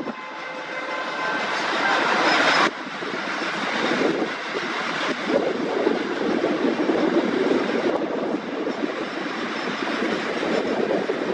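Long passenger express running past on the rails: a dense, steady rumble of coaches and wheels on track. It builds over the first few seconds, drops suddenly about three seconds in, then carries on steadily.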